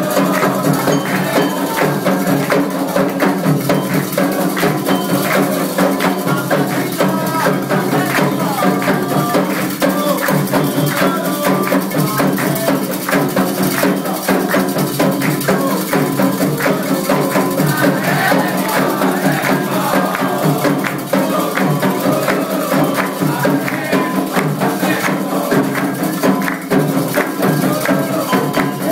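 Candomblé ritual music: dense, rapid percussion with rattles or shakers keeping a steady beat, and voices singing over it.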